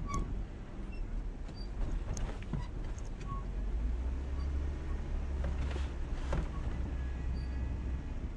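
Jeep engine running low and steady as the Jeep crawls along, with scattered clicks and knocks over it.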